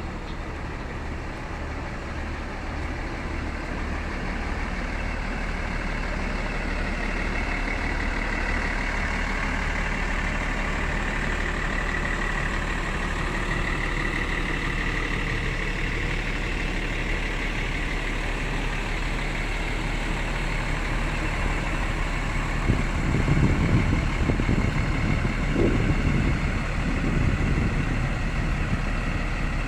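A vehicle engine running steadily, with a louder low rumble about three-quarters of the way through.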